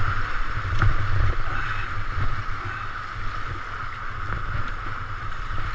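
River water rushing and splashing around a kayak on the move, over a choppy low rumble, with a few light knocks.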